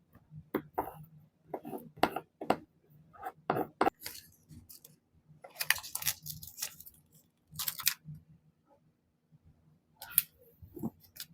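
Paper crafting handling sounds: irregular rustles, clicks and snips of paper being cut and handled, with two longer rustling bursts in the middle, over a faint steady low hum.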